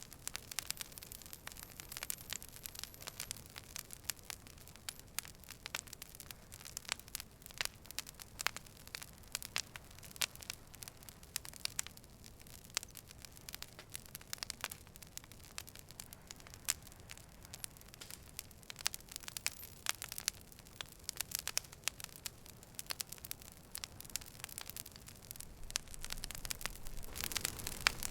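Campfire burning: burning wood crackling with frequent sharp pops over a soft steady hiss, a little louder near the end.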